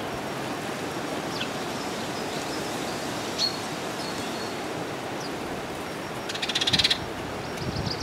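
Garden birds giving a few short, high chirps over a steady rushing background noise, with a quick rattling burst of rapid clicks lasting about half a second near the end.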